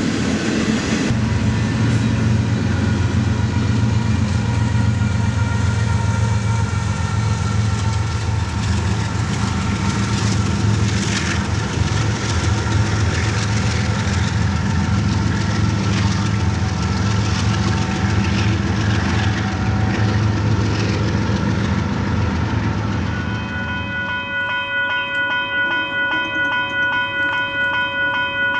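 Double-stack intermodal freight train rolling past, with a steady rumble and clatter of its wheels on the rails. Near the end this gives way to a long, steady chord from a train horn.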